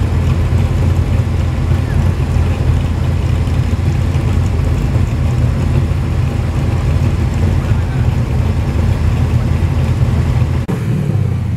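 Several V8 muscle cars idling and creeping forward in a queue: a loud, steady, deep rumble. The rumble drops out for a moment near the end.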